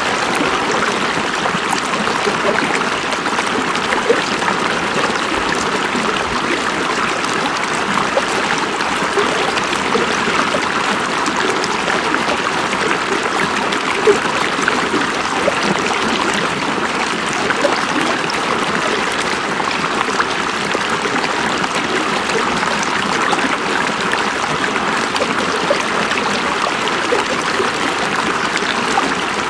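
River water flowing over rocks: a steady rushing with small splashes and trickles.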